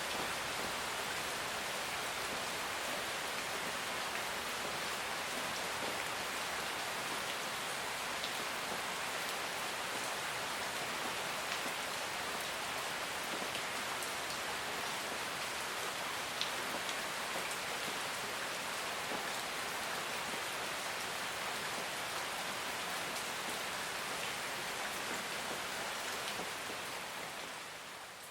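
Steady rain falling on a surface, an even hiss with faint drop ticks, fading out near the end.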